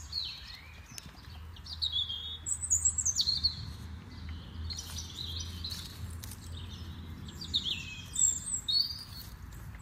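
Songbirds chirping and singing in short warbling phrases, several in a row, with a low steady rumble underneath.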